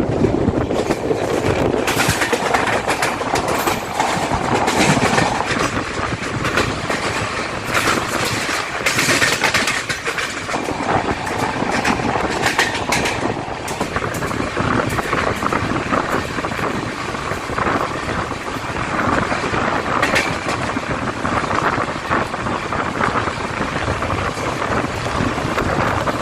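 Mahabodhi Express passenger train running along the track: a steady rolling rush with wheels clattering over rail joints in irregular clicks.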